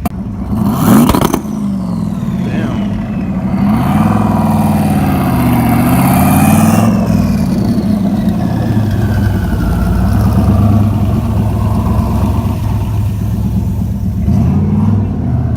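Vehicle engines revving: a sharp loud burst about a second in, then an engine's pitch rising and falling over a steady low engine drone, with a high whine that glides down.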